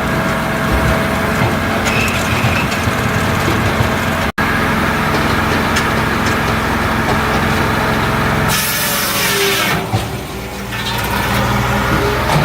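Multitek 1620SS firewood processor's 44 hp diesel engine running steadily under load. A hiss lasting about a second comes in near the end, over the engine.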